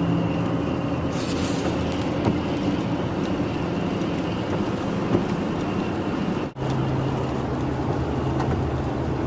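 Car engine and road noise heard from inside the cabin while driving uphill: a steady hum with a low engine note. There is a brief break about six and a half seconds in, after which the engine note is steadier and more prominent.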